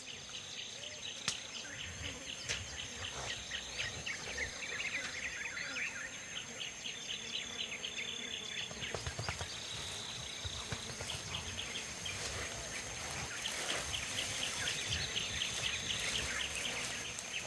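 Tropical forest ambience: a steady high insect whine throughout, with spells of rapid insect chirping and a few bird calls, and occasional faint rustles.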